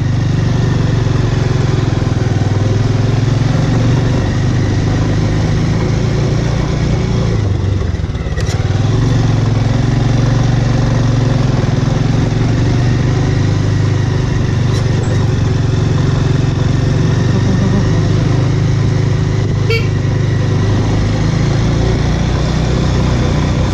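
Bajaj Avenger's single-cylinder engine running steadily while riding, with a brief dip in engine sound about eight seconds in.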